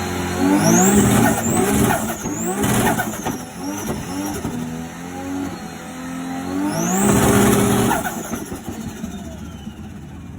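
A performance car's engine being revved repeatedly: a rise in pitch about half a second in, a run of quick blips of the throttle, then another long rev about seven seconds in before it drops back.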